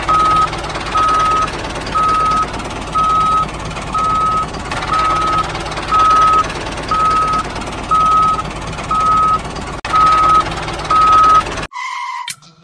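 Vehicle reversing alarm beeping about once a second, one steady tone per beep, over the steady hum of a running motor. It cuts off suddenly near the end.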